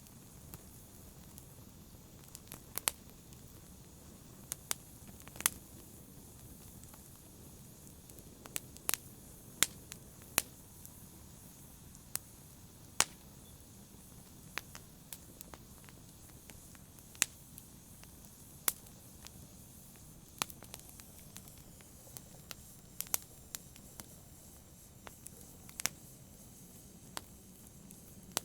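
Campfire crackling: a soft steady hiss with sharp, irregular pops, roughly one every second or two.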